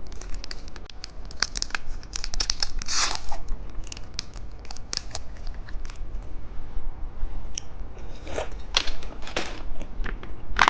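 Plastic wrapping of a small candy pudding being handled and torn open: a run of sharp crinkles and snaps, busiest about two to three seconds in and again near the end.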